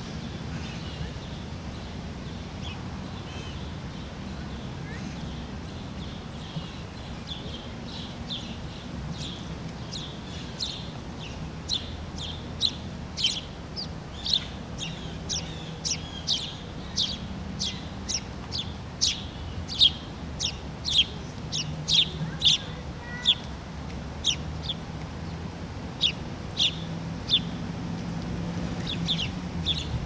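A bird giving a long series of short, sharp chirps, about one to two a second. They are faint at first and grow louder and more regular about a third of the way in, over a steady low background rumble.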